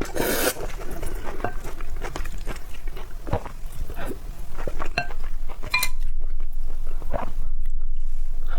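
Eating utensils clicking and clinking against a bowl of food in a run of short, sharp knocks, a few of them ringing briefly.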